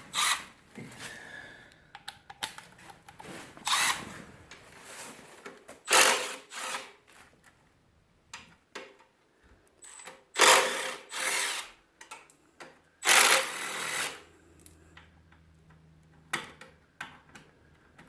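Power drill run in several short bursts of about a second each, with small clicks and knocks of handling in between.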